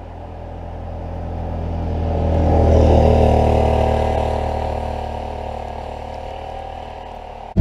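Can-Am Outlander 650 ATV's V-twin engine running steadily, swelling louder to a peak about three seconds in and then easing off again. It cuts off suddenly at the end.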